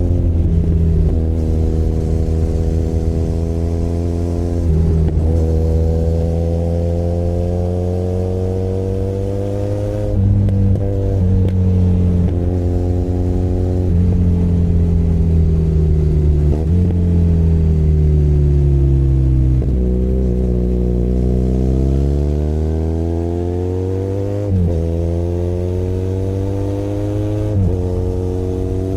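Benelli Leoncino 500 Trail's parallel-twin engine heard from the rider's seat. It pulls up through the gears, its pitch rising and then dropping sharply at each of several gear changes. About two-thirds of the way through it slows off the throttle, then accelerates again.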